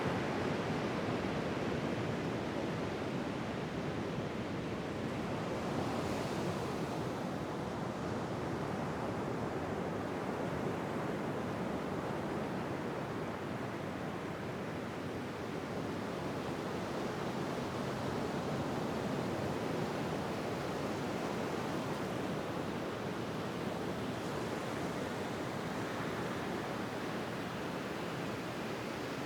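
Ocean waves washing in a steady, unbroken rush, swelling and easing gently.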